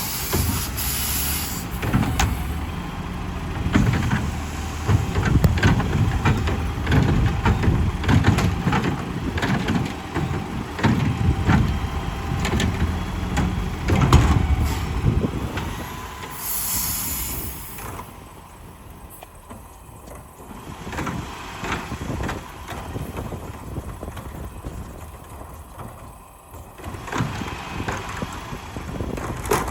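Yard waste garbage truck working at the curb: the engine runs loud with many sharp knocks and bangs for about the first sixteen seconds, with an air-brake hiss at the start and again about seventeen seconds in. After that the truck runs more quietly.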